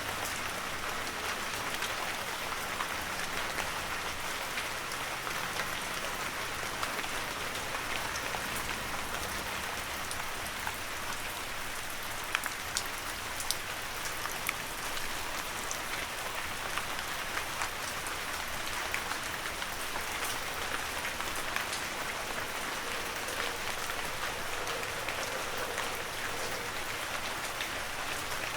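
Heavy rain falling steadily, with a constant hiss of rainfall and many individual drops ticking through it.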